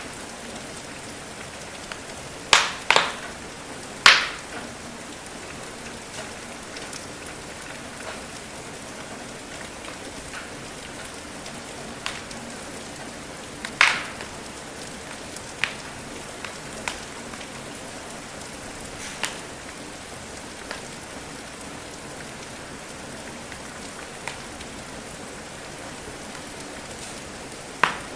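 Steady rain with the sharp pops and crackles of a burning wood fire every few seconds, a few loud pops close together near the start.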